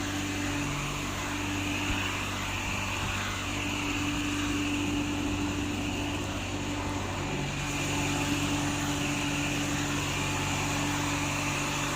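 Steady mechanical hum from a running motor or engine, with a constant tone that shifts slightly in pitch about seven and a half seconds in.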